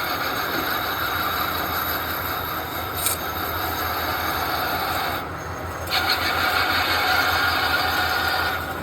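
Metal lathe cutting brass: a steady scraping with a high ringing tone over the motor's hum. The cut breaks off for under a second about five seconds in, then resumes louder until just before the end.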